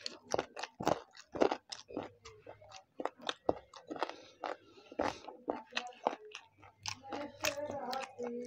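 Close-up mouth sounds of chicken biryani being chewed: a fast, uneven run of smacks and clicks. Near the end, fingers mixing rice on the plate.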